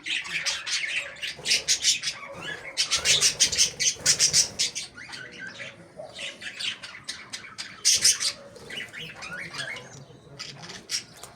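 Many small cage birds chattering, with fast chirps and squawks overlapping, busiest in the first half and again about eight seconds in.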